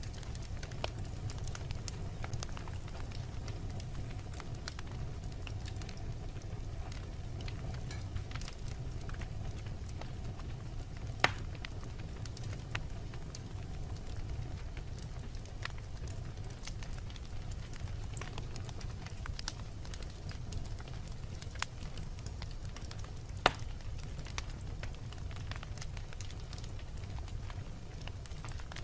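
Fire burning in a fireplace: a steady low rumble of flames with scattered crackles and small pops, and two louder, sharp pops, one a little before halfway and one near the end.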